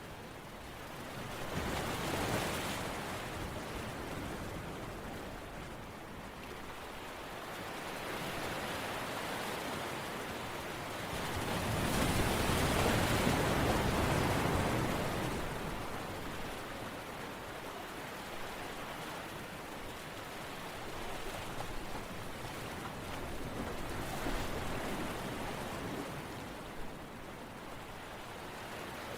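Ocean surf: waves washing in and drawing back, with a large swell about halfway through and smaller ones near the start and near the end.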